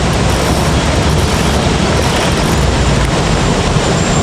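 Steady, loud rushing noise with no clear tone.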